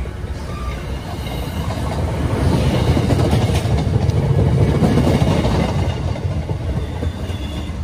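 A train passing by on the tracks. Its rumble builds to its loudest about halfway through, then begins to fade.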